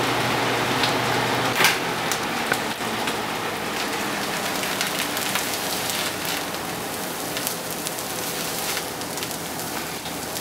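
Shredded hash brown potatoes sizzling steadily in a frying pan, with scattered sharp crackles.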